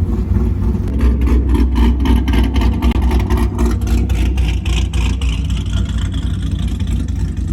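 Loud car exhaust rumbling, with a quick run of sharp crackles and pops through the first half.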